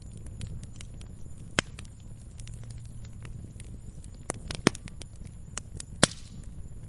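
Fireplace fire crackling, with irregular small pops and a few sharp louder pops, the loudest about 1.5 s, 4.5 s and 6 s in, over a low steady rumble of the burning fire.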